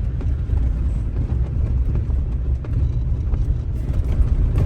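Vehicle driving: a steady low rumble with a few faint clicks and rattles.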